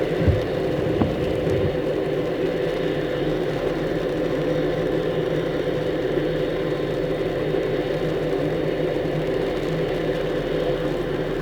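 Truck driving, its engine and road noise heard from inside the cab as a steady drone, with a few knocks in the first couple of seconds.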